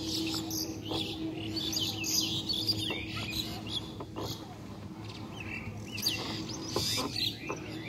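Small birds chirping: clusters of short, quick rising and falling calls, busiest near the start, in the middle and again late on.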